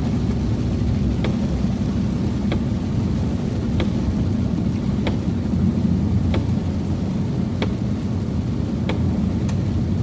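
Steady road and engine rumble inside a moving car, with a sharp click repeating evenly about every second and a quarter.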